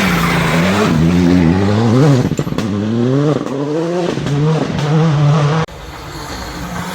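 Rally car engine revving hard, its pitch climbing and dropping back again and again as it shifts through the gears. The sound drops off suddenly near the end to a quieter, steadier engine note.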